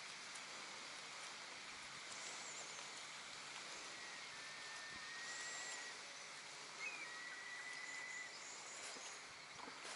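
Outdoor ambience of birds calling over a steady hiss: two long, level whistles, one in the middle and one a little later, with a few short high chirps scattered through.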